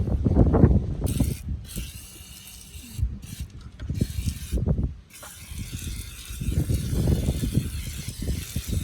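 Rubbing and scraping inside the plastic air filter housing of a BMW E39 525d as it is cleaned, with irregular knocks and rumbles of handling and a hiss that starts about a second in and breaks off briefly a few times.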